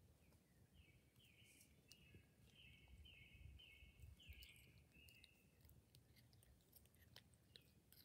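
Faint woodland ambience: a bird singing a run of repeated, evenly pitched notes for about four seconds, starting about a second in, over a low wind rumble.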